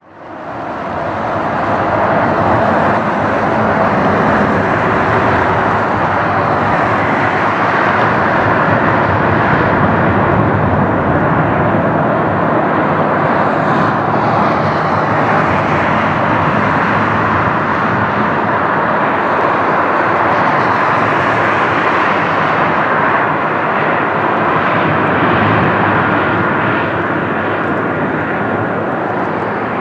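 Jet airliner engines running at high power, a steady loud rush of noise that fades in at the very start and holds throughout.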